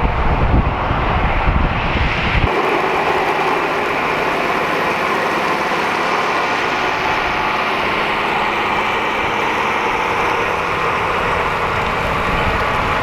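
Big farm tractor's diesel engine running steadily under load, pulling a plow. For the first couple of seconds a heavy wind rumble on the microphone covers it. At about two and a half seconds that rumble gives way abruptly to a steady, even engine drone.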